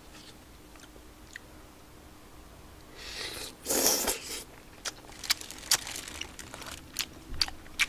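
Close-up eating sounds of spicy tteokbokki and fish cake: a loud noisy mouth sound lasting about a second, about three seconds in, then chewing with a string of sharp clicks.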